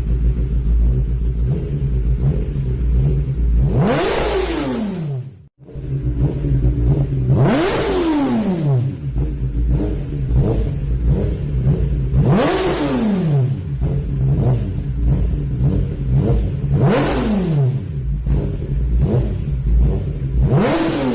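Kawasaki ZX-10R inline-four with an Akrapovic exhaust idling, blipped five times at even intervals, each rev rising sharply and falling back to idle. The sound cuts out briefly just after the first blip.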